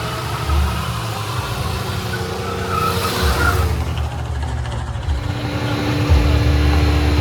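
Car engine running with a deep, steady rumble, revving now and then, with a brief higher-pitched screech about three seconds in.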